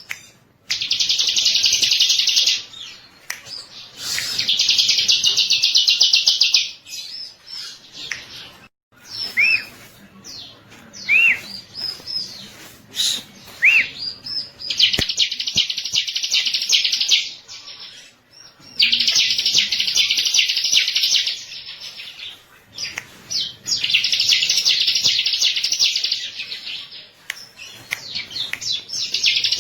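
Bar-winged prinia (ciblek) singing: bursts of rapid high trilling, each two to three seconds long, repeated about six times, with a few short separate chirps in between.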